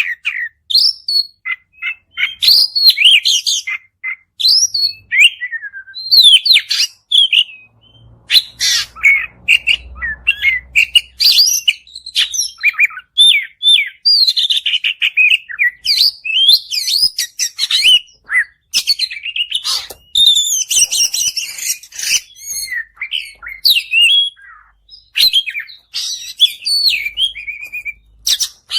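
Oriental magpie-robin (kacer) singing a long, varied song: quick whistled and twittering phrases one after another, with only short pauses between them.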